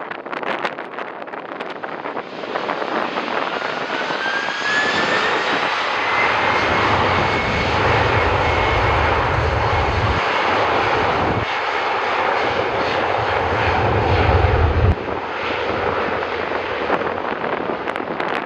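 Boeing 767 twin turbofan jet engines running loud on departure. The jet noise builds about two seconds in, with a fan whine that rises and then holds steady, and a deep rumble that swells and drops out in the second half.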